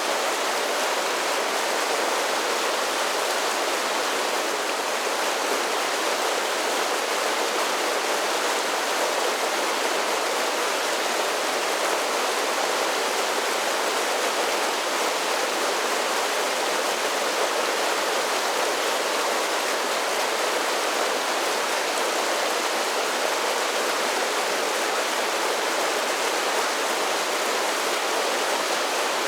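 Mountain creek cascading down a series of small waterfalls: a steady, even rush of water that holds the same level throughout.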